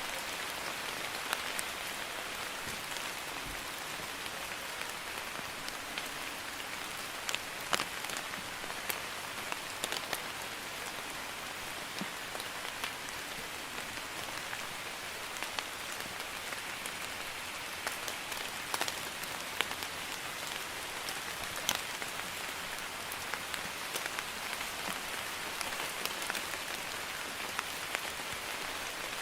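Steady light rain, a drizzle, with a constant hiss and scattered individual drops clicking sharply on a surface.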